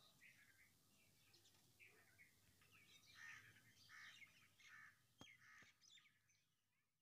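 Near silence with faint bird chirps here and there in the background, and a single sharp click about five seconds in.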